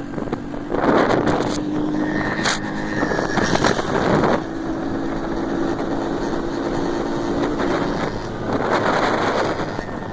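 Motorcycle engines running at a motorcycle race, with a steady engine hum and loud rushing surges about a second in, near four seconds and near nine seconds, with wind buffeting the microphone.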